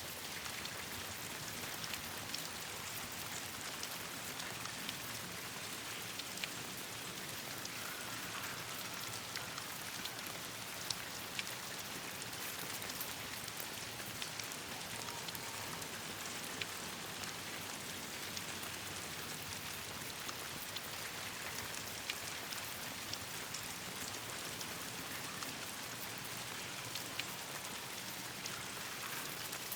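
Steady rain falling on leaves and ground, an even hiss with scattered sharp ticks and pops throughout.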